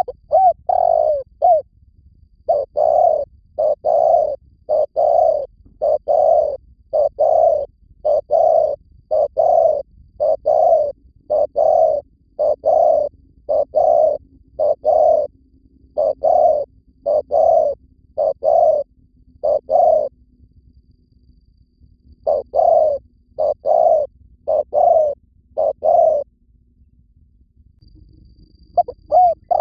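Spotted dove cooing over and over in short, low coo notes, the call of a decoy dove used to lure wild doves, with a break of a couple of seconds twice. A small bird chirps faintly and high in the background.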